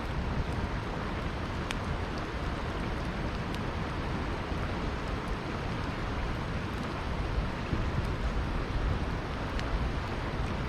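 Campfire crackling, with a few sharp pops over the steady rush of a flowing river.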